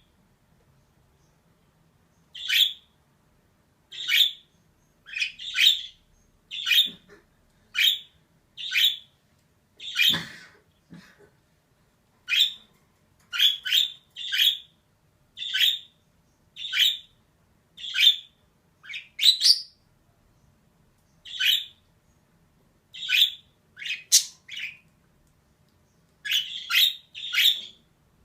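Female budgerigar giving short, sharp chirping calls at about one a second, with brief silent gaps and here and there a quick run of two to four calls.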